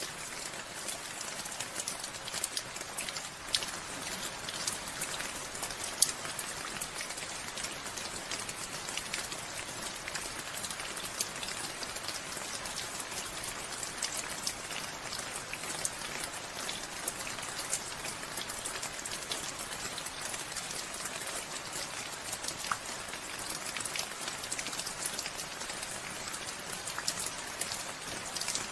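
Steady rainfall, a constant patter with many sharp individual drop hits.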